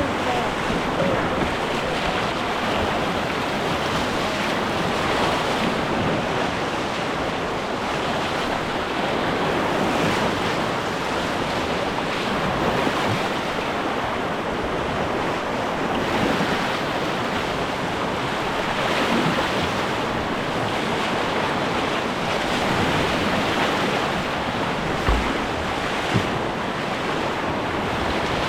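Steady rush of river whitewater, its level swelling and easing slightly, with two short knocks near the end.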